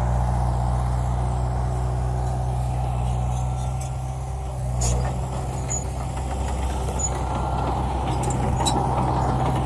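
Heavy earthmoving machine's diesel engine running steadily with a low rumble, with a few sharp clicks and a brief louder knock about five seconds in.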